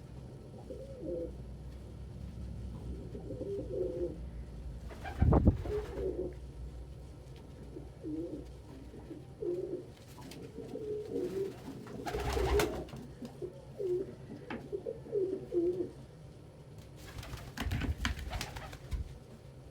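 Domestic pigeons cooing repeatedly in a small loft, low warbling coos one after another. A few sharp knocks or wing flaps break in now and then.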